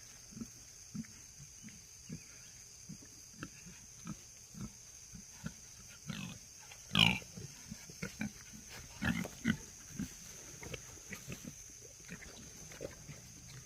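Pigs grunting in short low bursts, with one loud high squeal about seven seconds in and a few more squeals a couple of seconds later.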